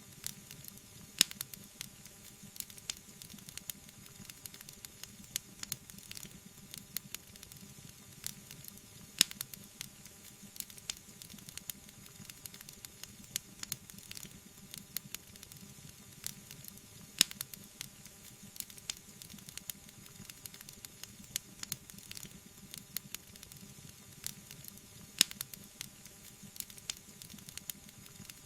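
Wood fire burning in a fireplace: a steady hiss with bubbling and frequent small crackles, and a louder pop about every eight seconds.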